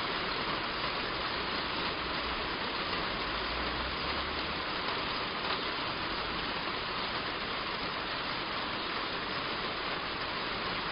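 Heavy rain drumming on a roof: a dense, steady hiss of countless drops with no change in strength.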